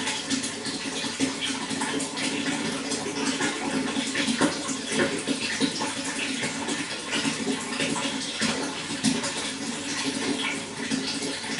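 Running water, splashing and burbling steadily with many small, irregular splashes.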